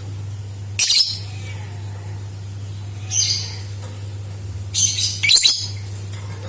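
Lovebird giving short, shrill, high-pitched calls, four bursts in all, the last two close together, over a steady low electrical hum.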